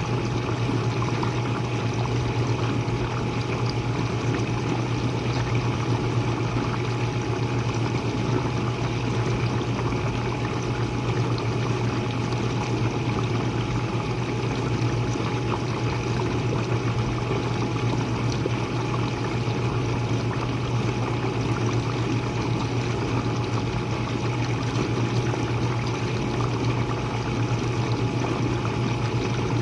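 Jenn-Air dishwasher running mid-cycle, heard from underneath: a steady motor hum with water spraying and splashing inside the tub, and a thin steady whine above it.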